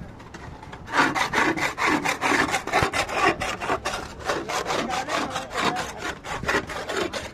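Rapid rasping strokes of a hand tool working a hard surface, about five strokes a second, starting about a second in.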